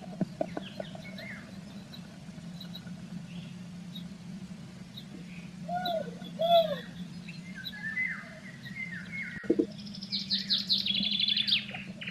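Small songbirds chirping and calling, with a fast high trill near the end, over a steady low hum. The footage is sped up 1.3 times, so the calls are raised in pitch.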